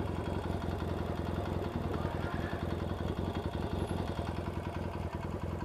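Yamaha XS650 air-cooled parallel-twin engine running steadily with a regular pulsing beat. The engine has a tapping knock that the owner suspects comes from worn rockers, rocker shafts or tappets, or a worn little end.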